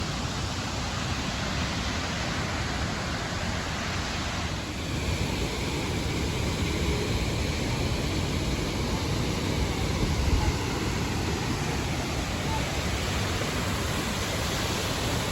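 Steady rushing roar of a waterfall, a little brighter and louder from about five seconds in.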